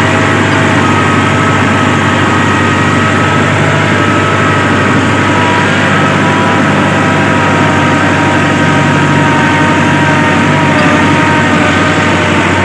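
Massey Ferguson 385 4WD tractor's diesel engine running steadily and loud, with a faint steady whine above the engine note.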